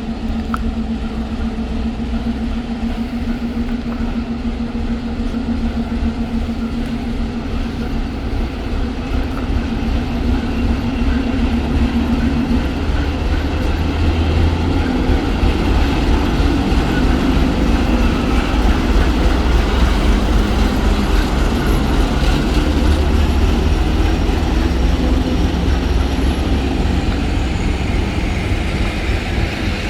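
ChME3 diesel shunting locomotive running on the rails: a steady engine drone with low rumble, growing louder from about ten seconds in and holding strong through the second half.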